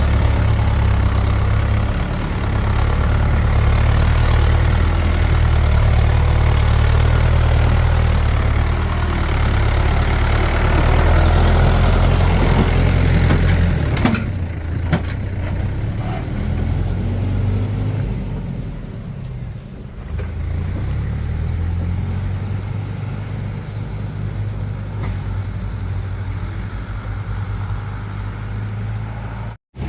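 Heavy diesel engine of farm machinery running loud and steady for about half the time, with a few sharp knocks around the middle, then settling to a quieter, lower run close to idle.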